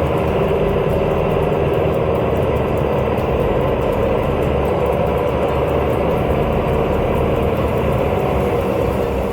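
Tractor diesel engine running hard under load, a loud, steady drone.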